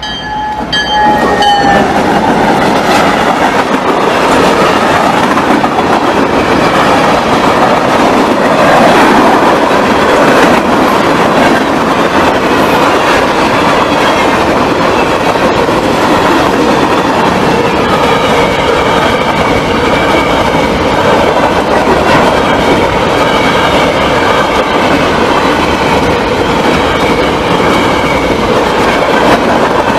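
Norfolk Southern diesel-hauled freight train at close range. Its horn chord ends about a second in with a drop in pitch as the locomotive passes. Then the locomotive and freight cars go by loudly and steadily, steel wheels rumbling and clacking over the rail joints.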